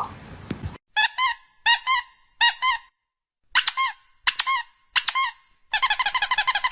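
A run of short, high-pitched squeaks in pairs and threes with pauses between, turning into a quick rapid series near the end.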